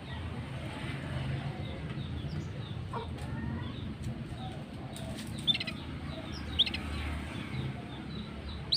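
Small birds chirping faintly and sparsely over a low steady background rumble, with two short, sharper chirps about five and a half and six and a half seconds in.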